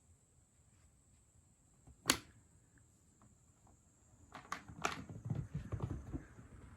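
A kitten at play: one sharp click about two seconds in, then a flurry of clicks and soft thumps for about two seconds as it scampers and pounces.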